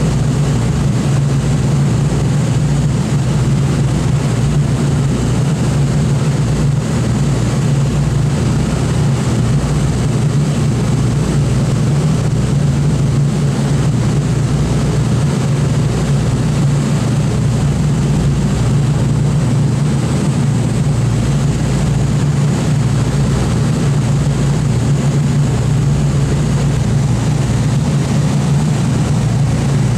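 Boeing B-29 Superfortress's four Wright R-3350 radial engines running, a loud steady drone with no change in pitch or level.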